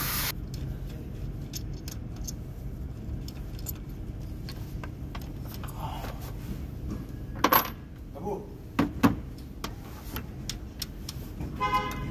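Hand tools and bolts clinking and rattling on metal while a valve cover is being unbolted, with a few sharp metallic knocks about seven to nine seconds in, over a steady low hum.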